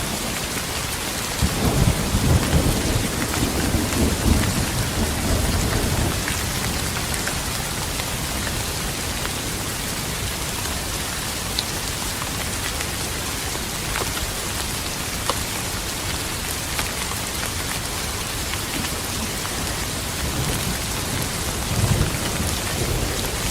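Steady heavy rain hissing, with a peal of thunder rumbling low about a second and a half in for several seconds, and a shorter, weaker rumble near the end.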